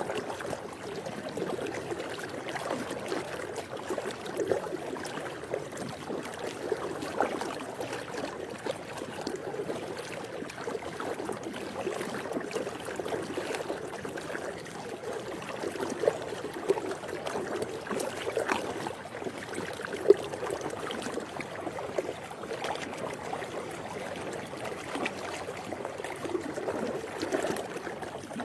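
Swimming pool water lapping and splashing, a steady watery wash broken by many small irregular splashes, with two sharper splashes around the middle.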